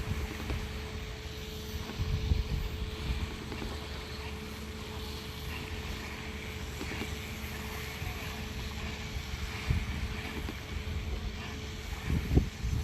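Boat engine running steadily with a constant hum, while wind buffets the microphone in low gusts.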